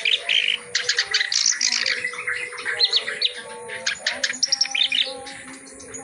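Reed warbler (kerak basi) singing a fast, vigorous chattering song packed with varied material: rapid strings of short harsh notes and quick up-and-down sweeps, broken by short pauses.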